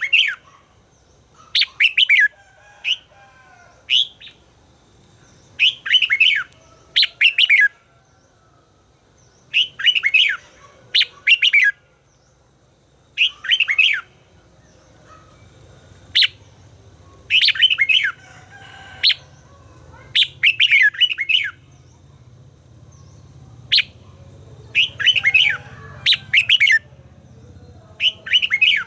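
A red-whiskered bulbul sings a string of short phrases, one every second or two. Each phrase is a quick run of notes that slide up and down.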